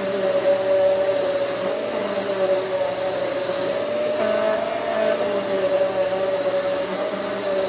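Hoover Swivel XL Pet vacuum cleaner running steadily, its motor whine wavering slightly in pitch as it is worked. About four seconds in, a brief burst of brighter hiss lasts about a second.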